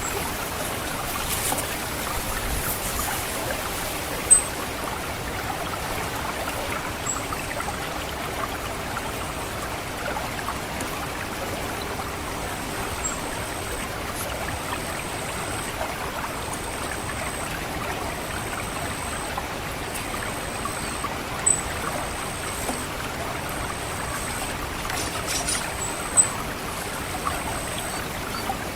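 Water trickling and gurgling steadily through a rice paddy, with an orange-headed thrush's thin, very high 'ngecit' call. The call comes a few times early on, then repeats about once every second or so from about halfway through. A few brief, sharper sounds stand out.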